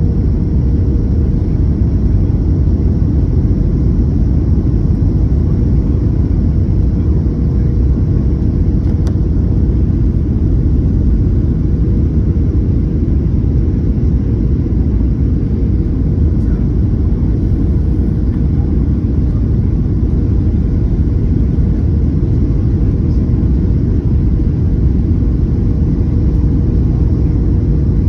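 Airliner cabin noise in flight: a steady low rumble of engines and airflow, with a faint steady hum above it.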